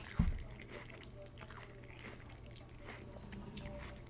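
Close-up eating sounds: biting, crunching and chewing a mouthful of pho with fresh vegetables such as bean sprouts, in scattered small crackles. A low thump about a quarter second in is the loudest sound.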